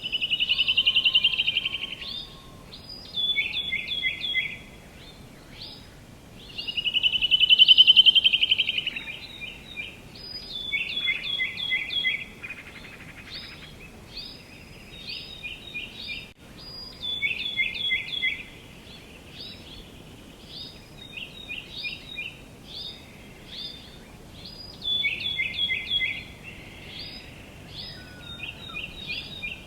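Songbirds singing and calling: quick groups of short, down-slurred chirps repeat throughout, and twice (near the start and about seven seconds in) a louder, rapid buzzy trill stands out, over a faint steady outdoor hiss.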